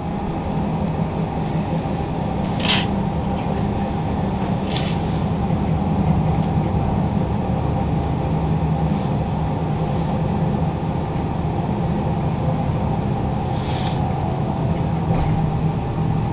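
Inside a moving passenger train carriage: the steady rumble of the wheels on the rails with a low steady hum. A few short sharp clicks come through, one about three seconds in and a longer one near the end.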